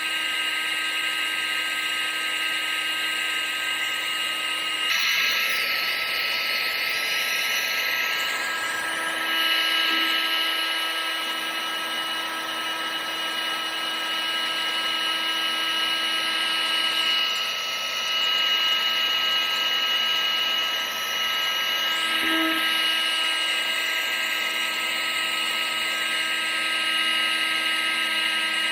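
Vacuum cleaner running steadily: a motor whine over rushing air. Its tone shifts about five seconds in and again a little after twenty seconds.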